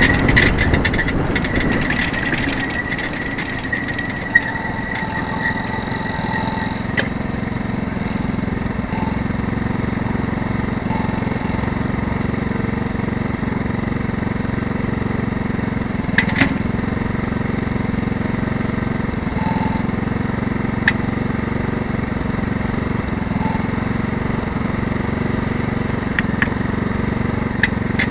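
A 150cc motorcycle engine runs steadily. A high whine fades out over the first few seconds, and a few light clicks sound now and then.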